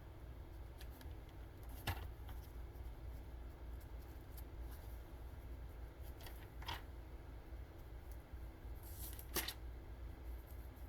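Faint rustles of thin Bible pages being handled and turned, a few short ones spread through, over a low steady hum.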